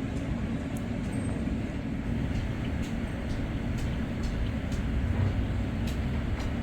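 Heavy rain pouring down: a steady hiss with faint scattered drop ticks.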